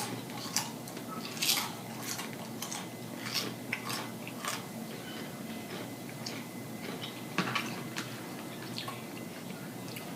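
Close-miked mouth sounds of a person eating: wet smacks and clicks at irregular intervals, a few seconds apart.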